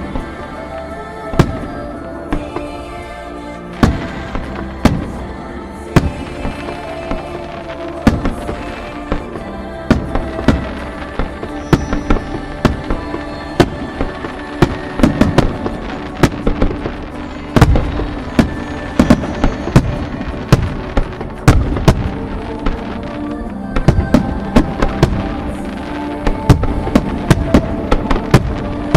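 Aerial firework shells bursting in a string of sharp booms and crackles, spaced out at first and coming thick and fast through the second half, over music with held tones playing throughout.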